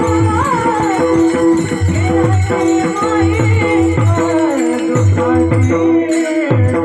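Marathi kirtan music: a singer's melodic line over a steady held drone, with a hand drum beating about twice a second and small cymbals jingling in time. The drum drops out briefly near the end.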